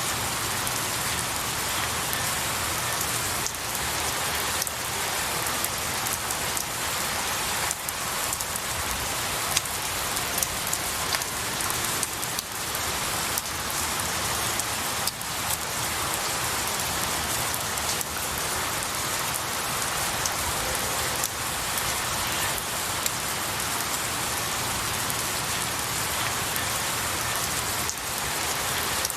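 Steady rain falling on pine needles and branches: an even hiss with scattered sharper drips and drop hits.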